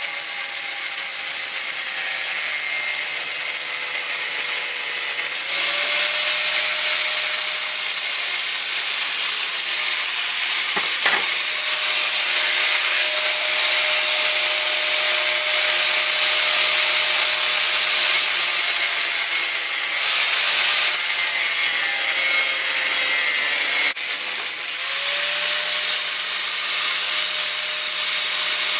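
Power tool cutting through 5160 spring steel: a steady motor whine over a bright, hissing cut. The motor's pitch sags under load and picks back up about five seconds in, and again near the end.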